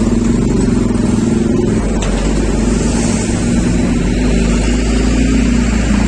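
Steady wind rumbling on the microphone of a moving road vehicle, over the low, even hum of its engine.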